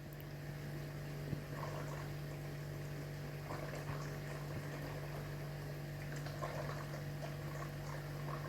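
Dishwasher filling with water: a faint, steady sound of water running into the tub, over a steady low hum.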